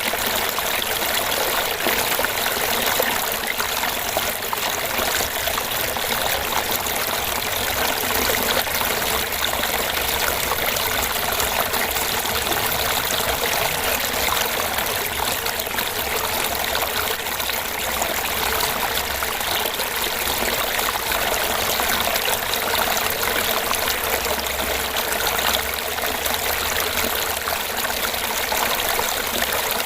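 Small fish-pond waterfall splashing and gurgling steadily into the pond.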